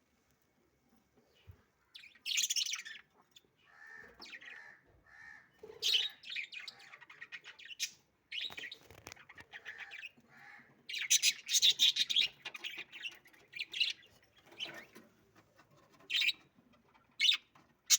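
Budgerigars chirping and chattering in short, scratchy bursts of calls, starting about two seconds in.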